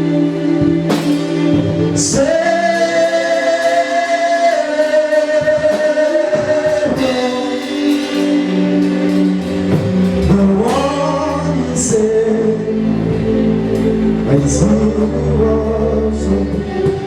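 Gospel worship song: a lead voice holds long sung notes over band accompaniment, with a steady bass underneath and a few bright cymbal-like crashes.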